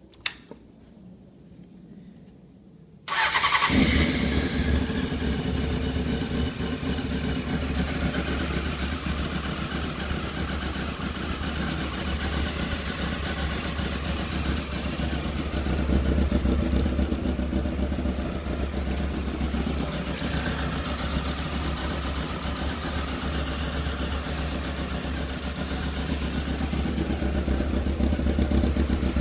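Honda CBR600F4 inline-four motorcycle engine starting: it catches suddenly about three seconds in and then runs at a steady idle.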